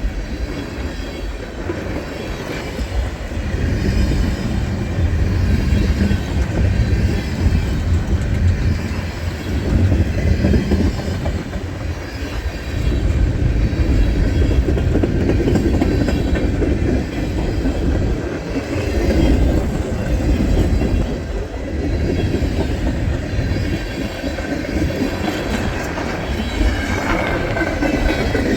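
Freight train of tank cars rolling past, with a steady rumble and the clickety-clack of wheels over rail joints.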